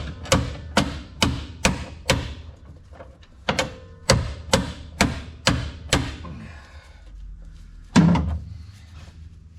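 Hammer blows on a hand impact driver, about two strikes a second with a short pause partway and one last heavy strike near the end: trying to shock a stuck bolt loose.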